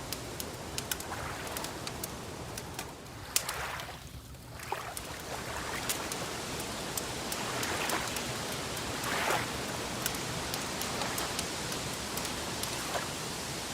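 Wood fire crackling: a steady hiss with sharp pops scattered irregularly throughout and a few soft swells.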